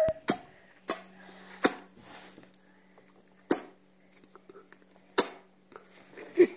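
A baby making funny mouth noises while being fed: about five short, sharp puffs, like little sneezes or spits, at irregular intervals, with a louder burst near the end.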